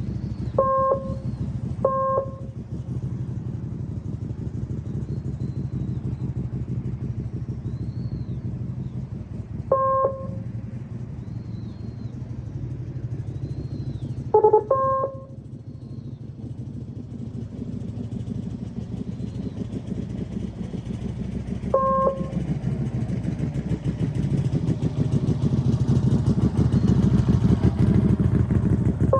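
Motorcycle engine running at low speed, picking up and getting louder over the last several seconds as the bike accelerates. Short electronic beeps sound several times over it.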